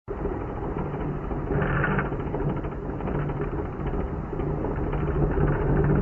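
Earthquake shaking: a continuous low rumble with constant rattling and clattering of shaken objects, and a steady low hum underneath.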